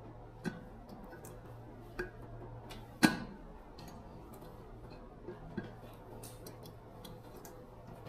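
A few sharp clicks and knocks, spaced irregularly, with one much louder knock about three seconds in, over a faint steady low hum.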